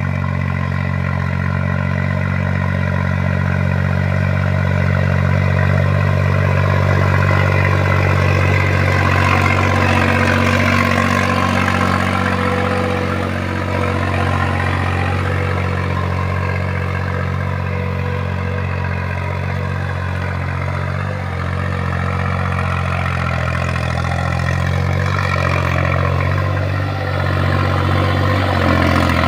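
New Holland 3630 tractor's diesel engine running steadily, with some clatter mixed in.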